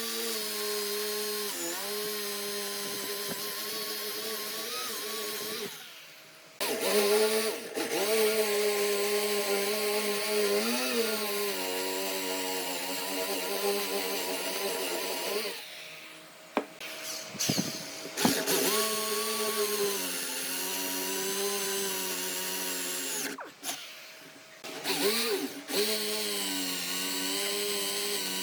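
Electric woodworking power tool motor running steadily, its pitch dipping briefly now and then as it takes load. It stops and starts again about three times.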